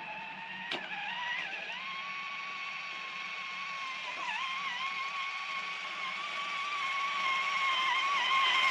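Electric whine of an RC crawler's Hobbywing QuicRun Fusion brushless motor under throttle. The pitch climbs over the first two seconds, then holds steady with small dips as the load changes, and there is one sharp click just under a second in.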